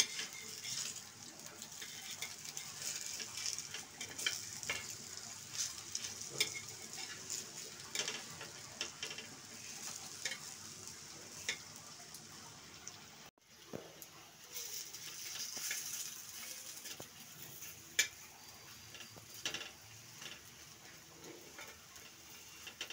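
Batter-coated pointed gourd halves sizzling in shallow oil on a flat iron tawa. A metal spatula scrapes and taps on the pan now and then as the pieces are turned over.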